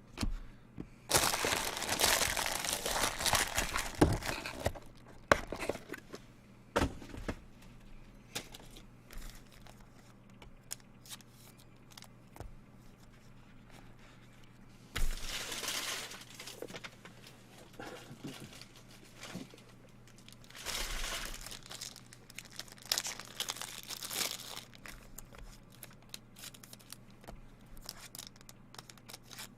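Plastic wrapping on trading card packaging crinkling and tearing as it is handled and opened, in three bouts: a long one near the start, a short one about halfway, and another a few seconds later, with light handling clicks in between.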